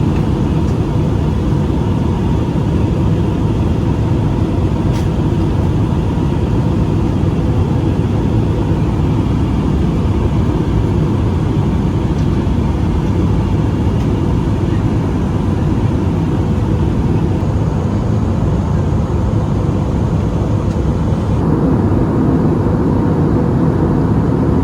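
Airbus A320-216 cabin noise in flight: a steady, loud drone of engines and rushing air, slightly louder near the end.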